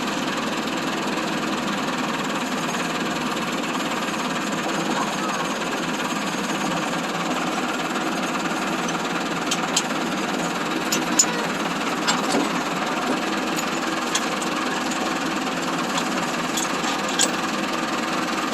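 Massey Ferguson 385 tractor's diesel engine running steadily while working a disc harrow, with scattered sharp clicks and knocks.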